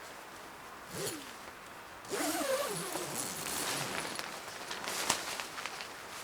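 Rasping, zipper-like handling noises from about two seconds in, with a brief low pitched sound and a sharp click near the end.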